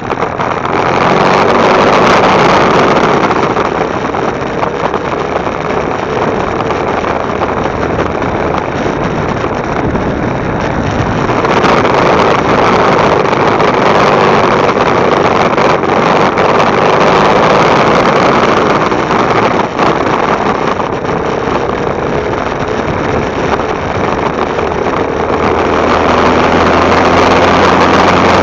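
Motorcycle ride heard from a camera mounted on the bike: engine running with wind and road noise rushing past. It is loud and swells and eases every several seconds.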